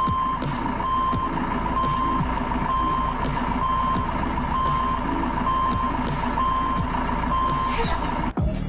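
Truck reversing alarm beeping, one steady high tone about once a second, over the low running of the truck's engine. The sound cuts off abruptly near the end.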